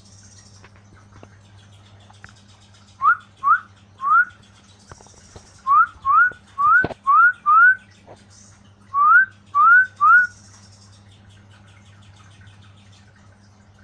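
Short rising whistled notes, eleven in all, in runs of three, five and three, each a quick upward 'wheet'. A single sharp click falls in the middle run, over a faint steady hum.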